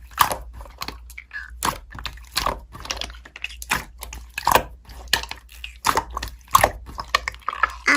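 Slime being squeezed and poked by hand, making irregular crackling clicks and pops, a few each second.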